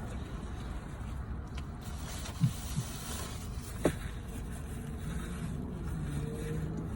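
A steady low rumble, with a few short rising squeaks about halfway through and a held low hum near the end.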